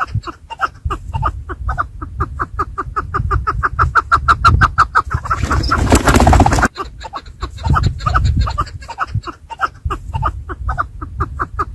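Chukar partridges calling in a fast, continuous run of clucks, several a second. About halfway through, a burst of rushing noise lasts about a second and a half and cuts off suddenly.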